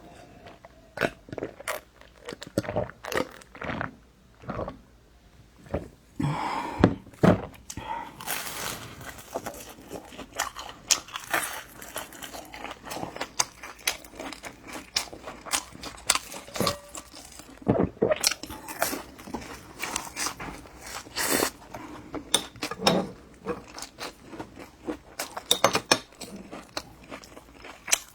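Close-miked eating: irregular bites, mouth clicks and chewing of food.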